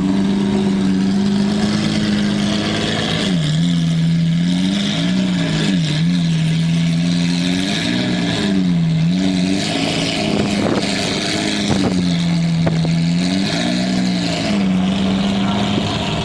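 A car engine running at a steady speed, its pitch dipping briefly and coming back up several times from about three seconds in, as the revs change.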